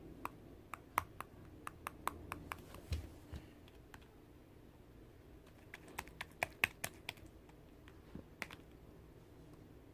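Slime being squeezed and pressed by hand, giving off irregular sharp clicks and pops, in quick clusters in the first few seconds and again around the middle, with a few stray clicks near the end.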